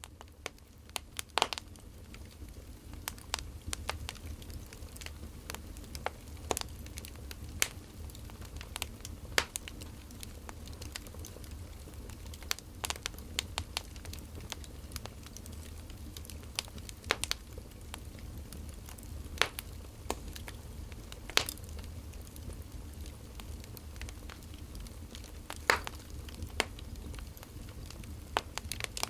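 Wood fire burning: irregular sharp crackles and pops from the burning logs over a low, steady rumble.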